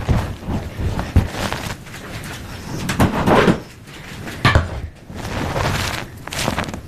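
Gym chalk being crushed and broken: irregular crunching and crumbling, with the loudest crunches about three seconds in and again about four and a half seconds in.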